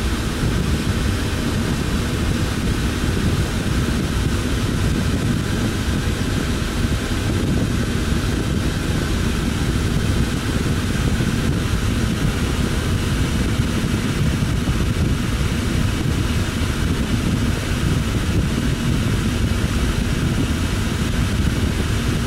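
HVAC system's fan running steadily: a loud, even rush of air and motor noise, strongest in the low end.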